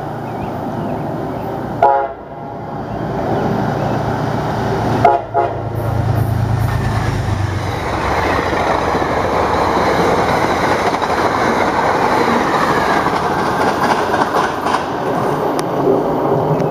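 Two short horn blasts from an approaching Metro-North commuter train, about two and five seconds in. Then the steady rumble and wheel-on-rail clatter of the train running past, its coaches going by close at hand.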